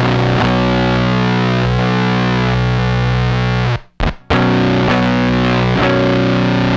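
Electric guitar through the AC Noises URLA's square-wave CMOS fuzz: a sustained, heavily fuzzed chord that cuts off just before four seconds in, a quick stutter, then a second chord held.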